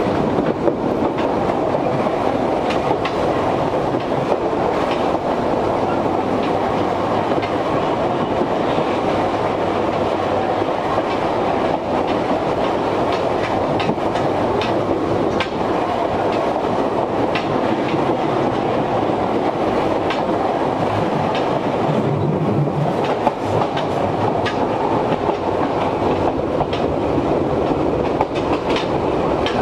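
Interior running sound of an Izuhakone Railway 1300 series electric train car under way: a steady rolling rumble with scattered clicks and clanks from the rail joints and the loose gangway plates between cars. The strong air conditioning is running throughout.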